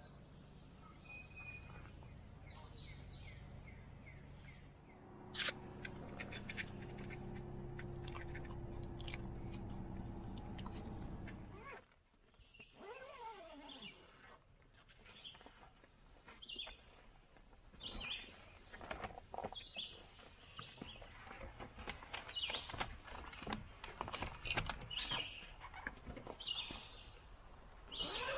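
A steady hum that cuts off abruptly about twelve seconds in, followed by birds chirping and calling with scattered clicks.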